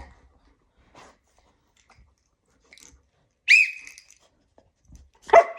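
Puppy vocalising: a single short, high-pitched yelp about three and a half seconds in, then a louder, lower bark near the end.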